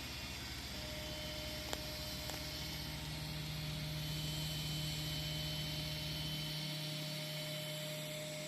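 CNC plasma table's gantry motors running with a steady whine as the machine moves to its park position, with a single click about two seconds in. A low pulsing under the whine stops about two seconds before the end, leaving a hum.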